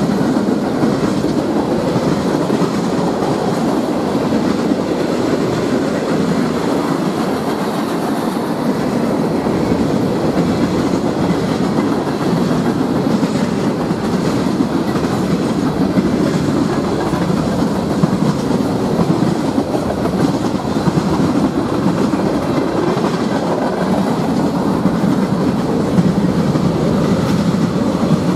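Norfolk Southern mixed freight train's cars rolling steadily past: steel wheels clattering and rumbling on the track, with no locomotive in the sound.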